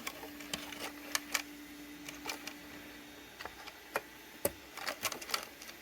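Scattered small plastic clicks and taps as the clips and wire connectors on a Bambu Lab AMS hub are worked loose by hand. A faint steady hum runs under them for about the first three seconds.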